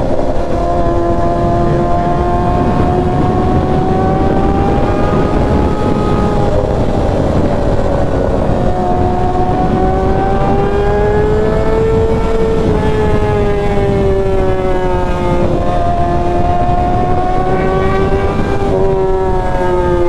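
Kawasaki ZX-6R's inline-four engine, with a Graves header and M4 muffler, running at high revs under way, its pitch drifting slowly up and down as the throttle changes, over a steady loud rushing noise.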